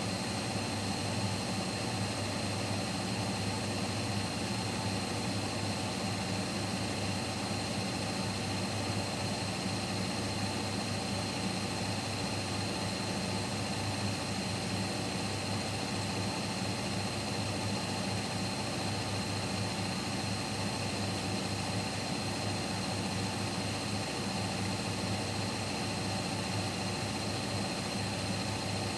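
Siemens Siwamat Plus 574 front-loading washing machine in its final spin at 800 rpm: the drum turns at a steady high speed with an even motor hum.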